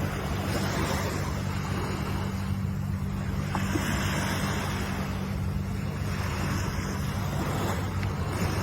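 Ocean waves breaking and washing in, the surf swelling and easing every few seconds, over a steady low hum.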